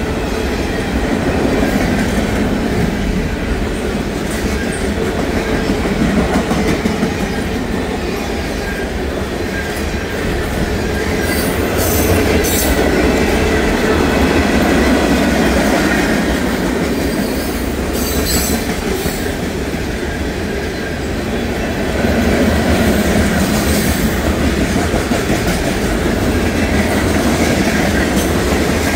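CSX freight train of tank cars passing at speed over a grade crossing: a steady rumble of steel wheels on rail with rhythmic clicking over the rail joints. A few brief high-pitched metallic squeals come near the middle.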